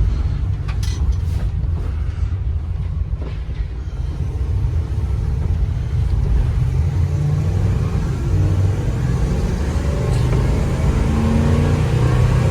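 2016 Ford E350 box truck driving, heard from inside the cab: a steady low engine and road rumble, with a few clicks in the first few seconds. In the second half the engine note rises in pitch and grows a little louder as the truck picks up speed.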